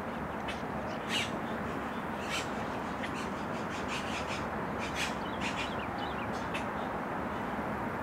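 Birds calling by the lake: a scattered series of short, harsh calls and a few quick descending squeaks over steady outdoor background noise.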